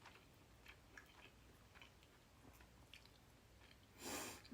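Faint close-up mouth sounds of a person chewing food: scattered small wet clicks, with a short audible breath near the end.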